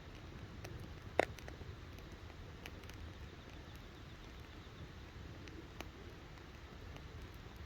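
Wood campfire burning, with scattered crackles and small pops and one sharp pop about a second in, over a low steady rumble.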